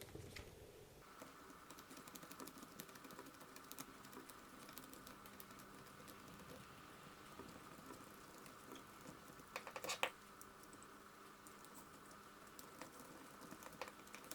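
Faint, scattered clicks and taps of small screws, a screwdriver and plastic and metal parts being handled while a small RC car is taken apart, with a brief busier cluster of clicks about ten seconds in. A faint steady high tone runs underneath from about a second in.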